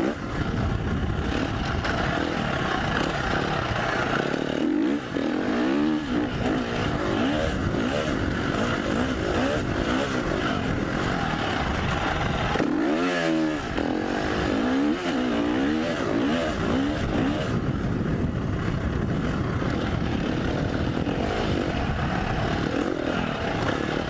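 KTM 350 SX-F dirt bike's single-cylinder four-stroke engine being ridden hard, revving up and dropping back repeatedly as the throttle is worked, with a few sharp rise-and-fall sweeps about five seconds in and again near the middle.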